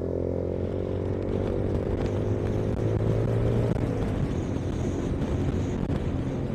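Yamaha YBR 125G's single-cylinder four-stroke engine running under way, its pitch easing down slightly over the first few seconds, with wind rushing over the microphone.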